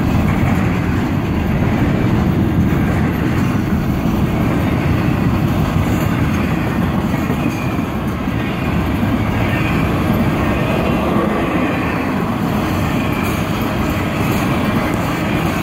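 Intermodal freight train's container well cars rolling past at speed, a steady rumble of steel wheels on the rails with some clickety-clack.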